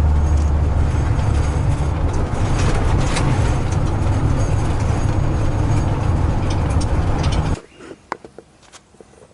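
Steady low rumble of road and engine noise inside a moving car. It cuts off abruptly about seven and a half seconds in, leaving only faint scattered clicks.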